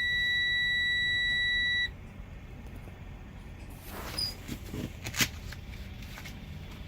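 Truck dashboard warning buzzer giving one steady, high-pitched tone with the key switched on and the engine off. It cuts off about two seconds in, and a couple of faint clicks follow.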